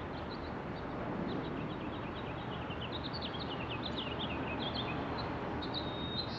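Songbirds chirping in quick runs of short, high notes over a steady background noise; a brief held whistle comes near the end.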